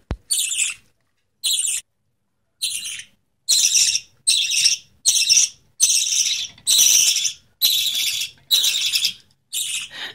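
Young spangle budgie chick giving a string of raspy food-begging calls, each about half a second long. After a short lull early on they come about once a second, the chick calling for formula as it is hand-fed.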